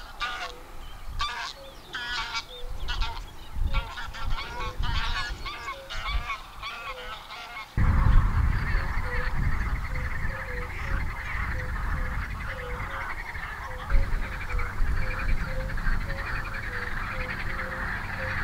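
A flock of geese honking, many calls overlapping. About eight seconds in the sound jumps louder, with a denser chorus of calls over a low rumble.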